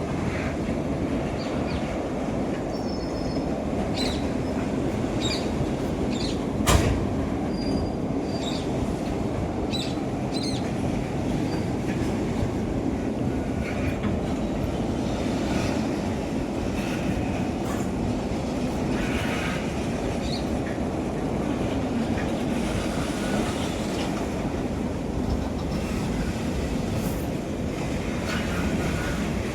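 Freight train of BCNA covered wagons rolling past with a steady rumble of wheels on rail, with short high wheel squeals now and then and a sharp clank about seven seconds in.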